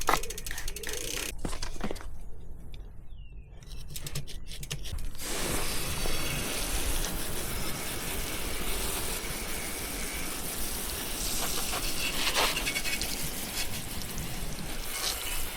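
A few clicks and scrapes. Then, about five seconds in, a steady rush of water spraying onto a bicycle as it is rinsed.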